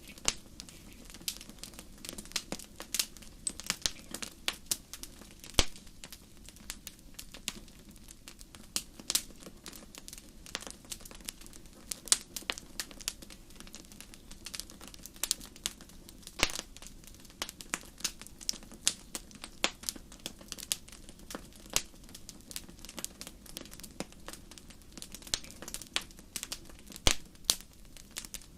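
Wood fire crackling in a fireplace: irregular sharp pops and snaps, a few of them louder, over a steady low rush of the flames.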